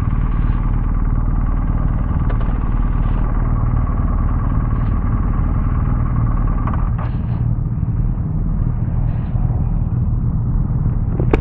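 BMW R1250GS boxer-twin motorcycle engine running steadily at low revs, with a few brief faint knocks.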